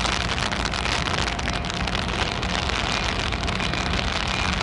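A train rolling by on the rails: a steady rushing noise of wheels on track with a low rumble underneath.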